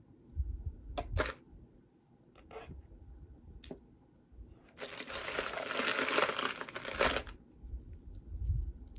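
Beaded necklaces and chains being handled: a few light clicks, then about two seconds of dense, bright clinking and rattling near the middle as the jewelry is moved.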